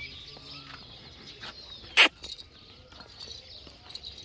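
Small birds chirping continuously in the background, with one short, loud, sharp burst of noise about two seconds in.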